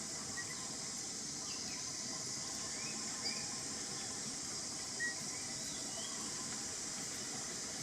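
Steady high-pitched insect chorus, with a few faint short chirps about three and five seconds in.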